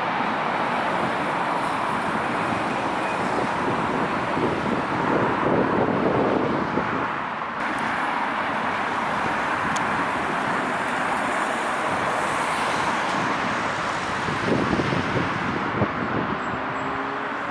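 Steady outdoor rumble of engines and traffic, with a sudden change in the sound about seven and a half seconds in.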